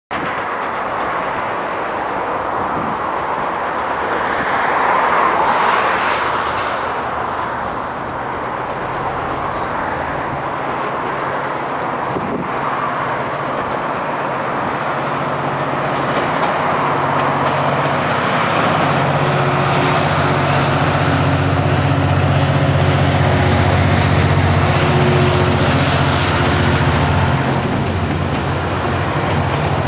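GO Transit commuter train passing: a diesel locomotive hauling double-deck bilevel coaches. The first few seconds hold an even rushing noise of the train on the rails, swelling around five or six seconds in. Then the locomotive's diesel engine drone comes in steadily and grows loudest in the second half as the train rolls past.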